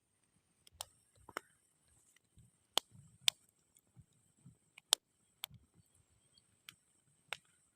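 Campfire crackling: burning wood giving off sharp, irregular pops and snaps, a dozen or so, over a faint steady hiss.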